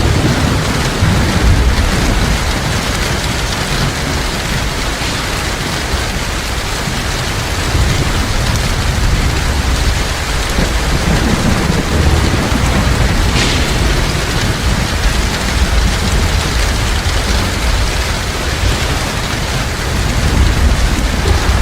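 Heavy rain falling steadily and densely, with a low rolling rumble of thunder underneath that swells and fades a few times.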